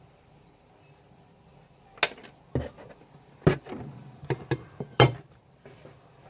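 About six sharp knocks and clacks, starting about two seconds in: a spoon and plastic containers being handled and knocked while mixing slime.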